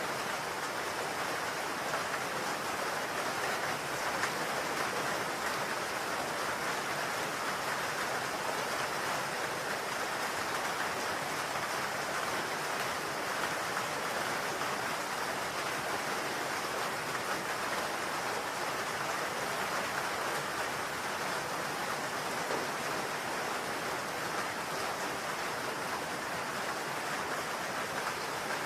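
Steady rain falling on a roof: an even, unbroken hiss of many drops.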